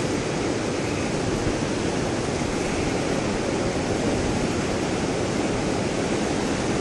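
Whitewater rapids rushing in a steady, unbroken wash of water noise, heard from a raft running the rapids of the New River.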